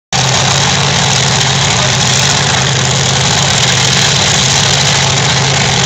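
Drag-racing car engines idling at the starting line, loud and steady with no revving.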